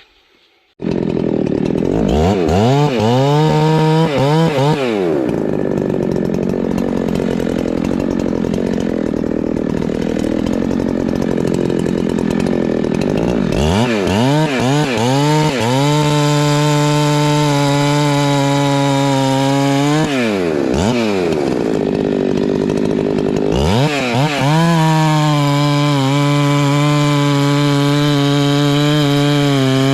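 Husqvarna 390 XP two-stroke chainsaw bucking firewood. It comes in suddenly about a second in and revs up and down a few times. Between the revs it holds long steady high-throttle runs through the cut, with short drops in pitch about two-thirds of the way through.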